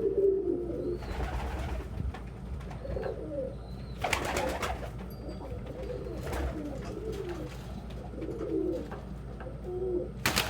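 Domestic pigeons cooing over and over, low and warbling, with a few short rustling noises in between.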